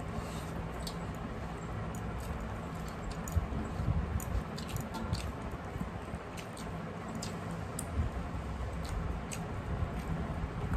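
Close-miked chewing and wet mouth sounds of people eating rice and curry by hand, with many short, sharp lip-smacking clicks scattered through, over a low hum.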